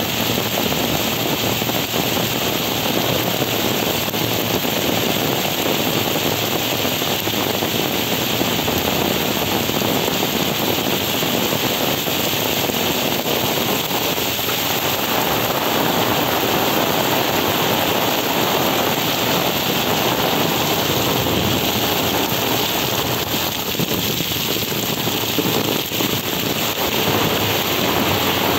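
Heavy rain pouring onto a paved street, a steady, loud, dense hiss of downpour splashing on the asphalt.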